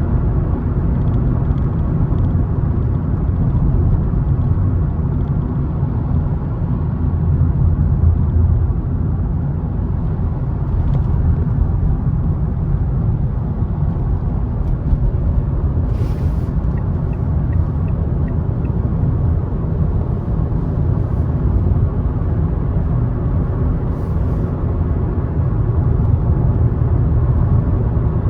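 Car driving along a road: a steady low rumble of engine and tyre noise. A couple of brief clicks come a little past halfway and again later on.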